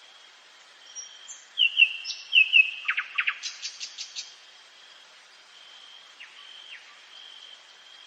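Nightingale singing one phrase about a second in: a few short notes, then a quick run of repeated downward-sweeping whistles, then a fast rattle of sharp clicking notes, about seven a second, that ends after about three seconds. A steady high thin tone runs underneath throughout.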